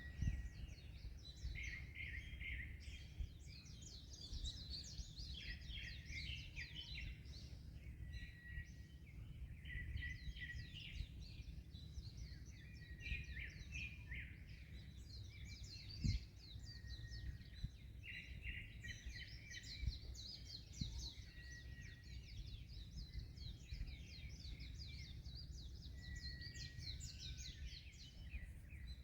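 Many small birds chirping and twittering without pause, over a low, steady rumble of wind and surf. Two brief low thumps come in about halfway through.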